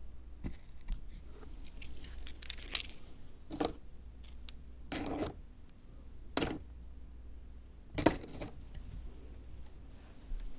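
Scattered short scrapes and taps of hand-working on a miniature Zen rock garden diorama, about five separate strokes, the loudest one near the end.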